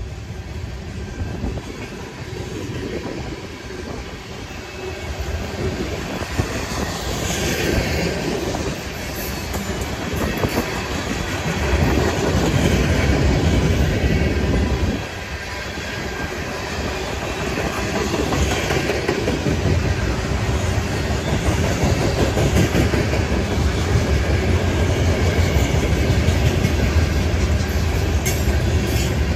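A train running past, its rumble building over the first dozen seconds, dropping suddenly about halfway through, then running on steady and loud.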